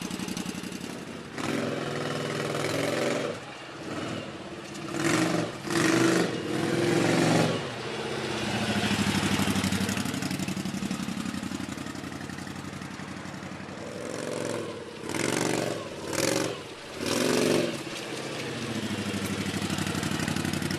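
Motorcycle engine running and being revved: a few quick throttle blips in a row about five seconds in and again around fifteen seconds, with slower rises and falls in engine speed in between.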